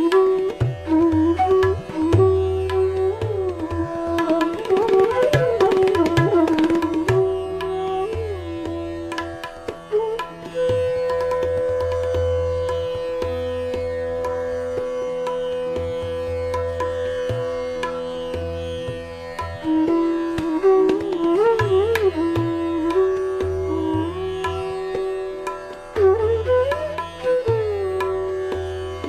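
Indian classical-style background music: a sitar-like plucked string melody with gliding notes over a drone and tabla-like drum strokes.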